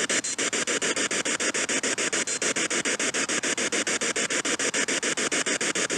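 Spirit box scanning through radio stations: a steady static hiss chopped into rapid, evenly spaced pulses as it sweeps, with no voice coming through.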